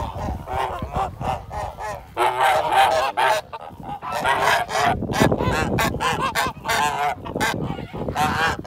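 Several animals calling over one another in quick, repeated short cries.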